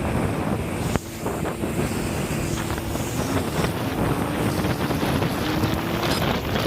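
Jet ski under way: its engine runs steadily under heavy wind buffeting on the microphone and rushing water, the engine note creeping slightly higher near the end.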